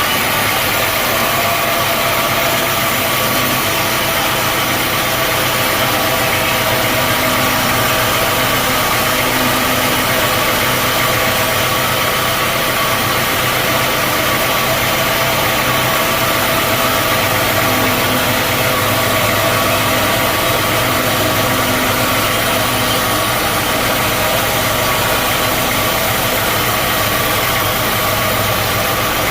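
Sawmill machinery running steadily: an engine drone with a constant whine over it, holding one pitch throughout.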